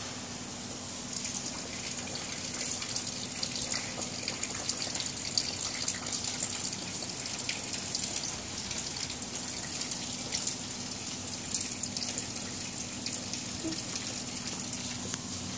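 Rain falling on a wet concrete rooftop: a steady watery hiss full of small splashes, growing louder about a second in, over a faint low steady hum.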